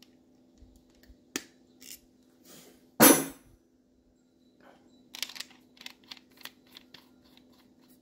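MIG welder humming steadily while small metal parts of the welding gun are handled, with scattered clicks, one loud short hiss-like burst about three seconds in, and a quick run of light clicks later on, as the contact tip for 035 wire is fitted.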